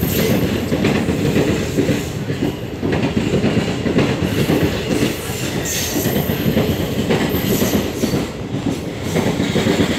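Indian Railways passenger coaches running past close by, steel wheels clattering rhythmically over the rail joints under a steady rumble.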